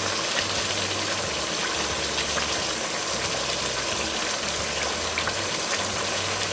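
Chicken and potato masala sizzling steadily in hot oil in a pot, with scattered small pops, as the curry is fried down and the oil separates from the masala.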